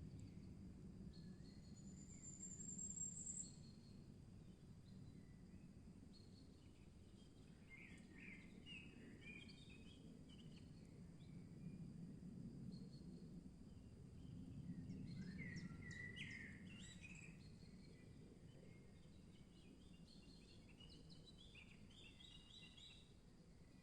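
Faint forest birdsong: several birds giving short bursts of chirping phrases, with one thin rising trill a couple of seconds in, over a low steady rumble.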